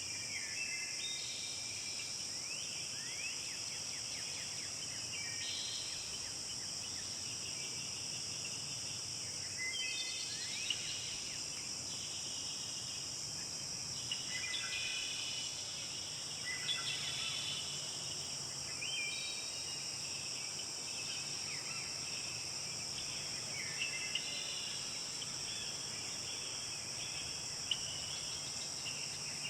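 Forest ambience: a steady high-pitched insect chorus runs throughout, while birds sing short chirping phrases every few seconds.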